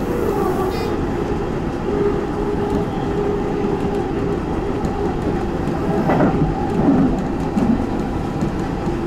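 Tobu 10030-series electric commuter train running at speed: steady motor and gear hum over rolling wheel noise, with wheels clattering on the rails. The running noise grows louder and rougher between about six and eight seconds in.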